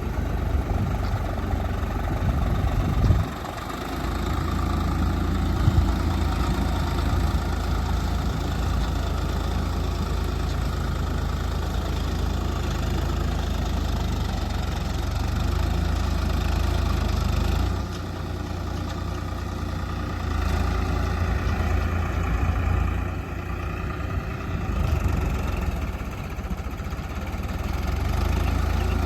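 Tractor engine running steadily, its level dipping briefly a few times.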